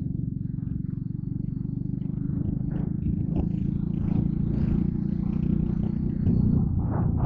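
Yamaha Crypton R underbone motorcycle's small four-stroke engine running with a fast, even putter, growing somewhat louder through the middle and toward the end, with a few brief rattles or wind buffets.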